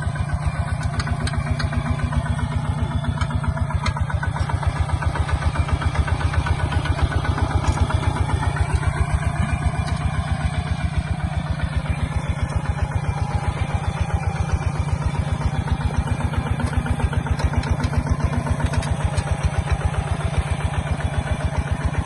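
Kubota ZT140 single-cylinder diesel engine of a two-wheel walking tractor, running with a steady, even chugging beat.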